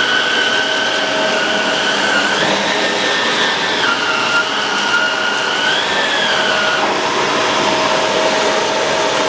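Shark Rotator Pro Lift-Away NV500 vacuum cleaner running steadily, a loud rush of air with a motor whine that drops and rises in pitch a few times, then fades about seven seconds in.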